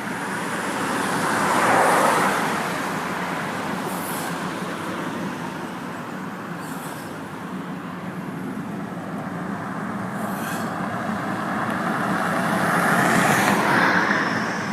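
Road traffic: a steady rush of passing vehicles, with one growing louder and fading about two seconds in and another near the end.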